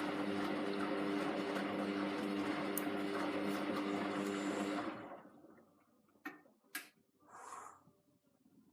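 Hoover Vision Tech washing machine running with a steady hum and a whoosh, stopping about five seconds in, then two sharp clicks and a brief soft rush.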